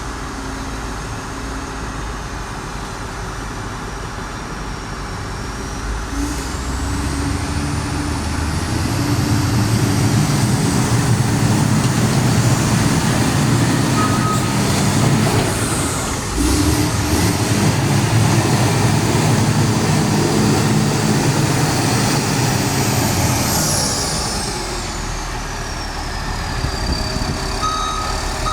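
Six-cylinder Cummins diesel of a Liugong CLG4180D motor grader running, building up a few seconds in with a rising high whistle. It stays loud for most of the stretch, then settles as the whistle falls away. A short beep sounds about halfway, and reversing beeps start right at the end.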